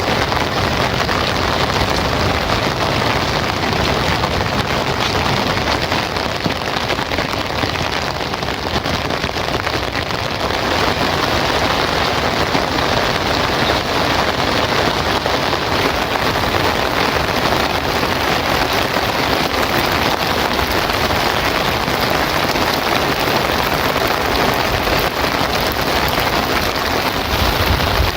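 Heavy rain falling steadily, a loud, even downpour.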